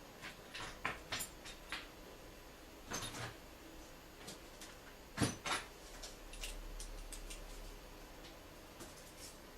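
Scattered clicks and knocks of tools and parts being handled during work on a car, with two louder knocks about three and five seconds in and light ticking near the end.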